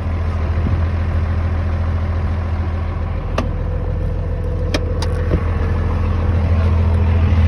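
Old pickup truck's engine running steadily at a low, even pitch, with three sharp clicks or knocks about three and a half and five seconds in.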